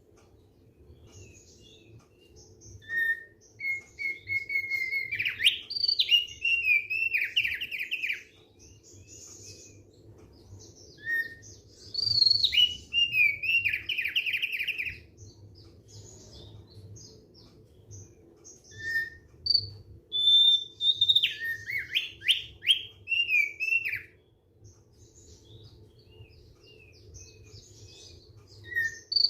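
Thick-billed heleia (opior paruh tebal) singing: three loud song phrases, each a held whistle followed by a fast run of falling notes, with short single calls in between. A faint steady low hum runs beneath.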